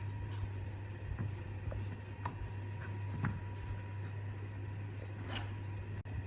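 A few light taps and clicks, as of small parts or tools being handled, over a steady low hum.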